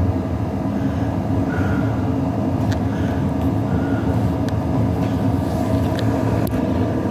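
A steady low mechanical hum, even and unbroken, with a few faint light clicks over it.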